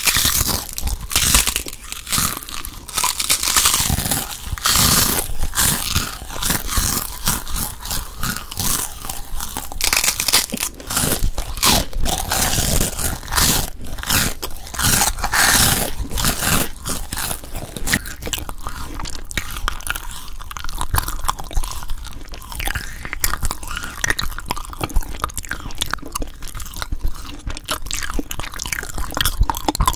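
Close-miked eating of crunchy food: a continuous run of biting and chewing crunches, dense irregular crackles with no pause.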